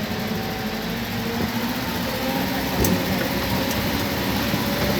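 Steady running noise of a vehicle's engine and tyres, heard from inside a moving vehicle.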